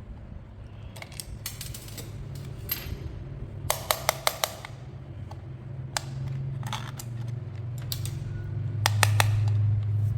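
Sharp clicks and snaps of plastic toy parts or packaging being handled, with a quick run of several about four seconds in and more near the end, over a low steady hum that grows louder toward the end.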